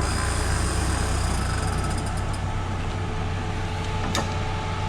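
Off-road 4x4's engine running steadily at low revs, with a single sharp click about four seconds in.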